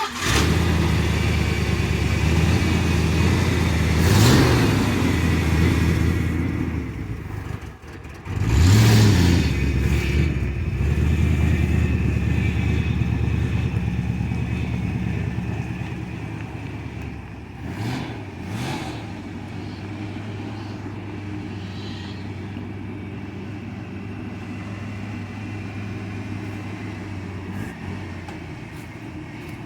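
A car or truck engine catches and starts, is revved up twice, blipped briefly twice more, then settles into a steady idle.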